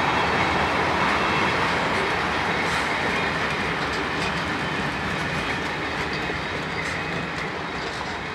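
Freight train's sliding-wall covered wagons rolling past on steel rails, with a few wheel clicks. The rolling noise slowly fades as the last wagons go by.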